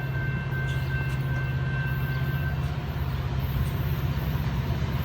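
GE AC4400CW diesel locomotive leading a Norfolk Southern freight, running steadily under throttle. Its engine is a low rumble. A faint steady high tone fades out about halfway through.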